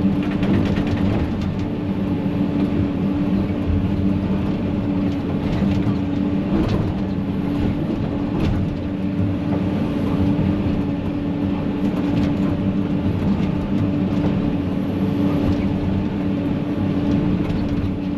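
Excavator's diesel engine running steadily under load, with a couple of faint knocks partway through.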